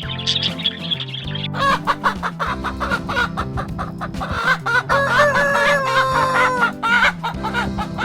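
Chickens clucking in short repeated calls, with a rooster crowing in one long held call about five seconds in, over background music.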